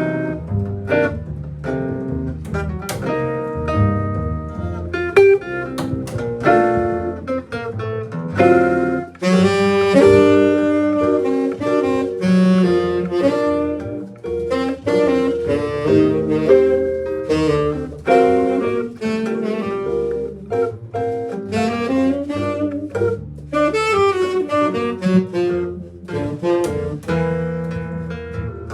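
A band playing a tune at rehearsal, with a melody line carried over chords and a bass part and a steady beat throughout.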